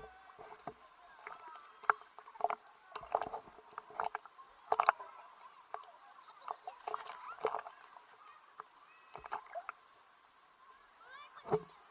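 Birds calling in a string of short squawks and chirps, some gliding up or down in pitch, with a quieter stretch about two-thirds of the way through.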